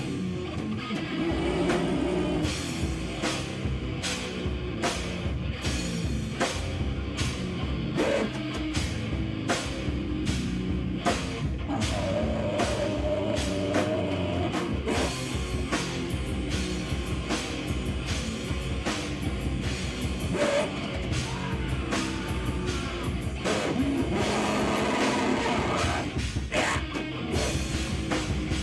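Live noise-rock band playing loud: a drum kit beating an even rhythm under guitar and dense noise.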